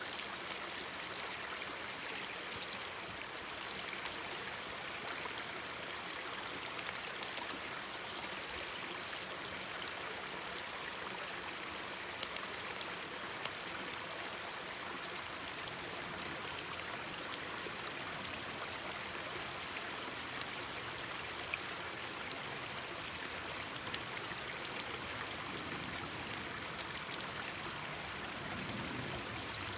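Mountain stream babbling steadily, with a few scattered sharp pops from a crackling campfire.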